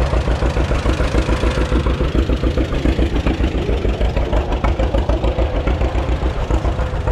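Engine idling steadily with an even, low pulsing beat of about six or seven firings a second.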